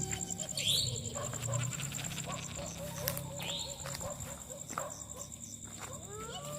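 Nighttime insects trilling steadily at a high pitch, with a run of short repeated calls, about four a second, through the middle. Rising tones come in near the end.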